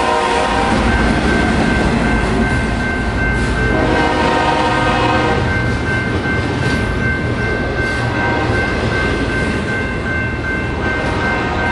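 A BNSF double-stack intermodal freight train rolls past at speed, with a steady rumble and rail noise from the wheels of the well cars. The train's locomotive horn blares three times: once ending about a second in, again about four seconds in for a second and a half, and again near the end. A steady high ringing tone runs underneath.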